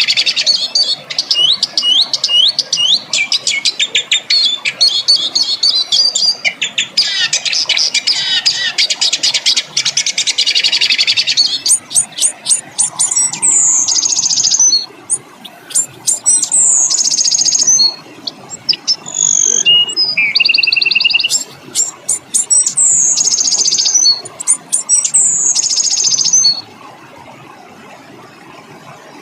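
Songbird song: a dense run of rapid rolling trills for about the first eleven seconds, then a series of separate harsh, high calls that sweep down in pitch. The song stops a few seconds before the end, leaving faint hiss.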